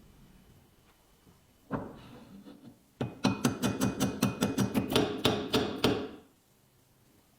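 A hammer striking metal: one knock, then a quick run of about fifteen ringing blows, about five a second, for some three seconds.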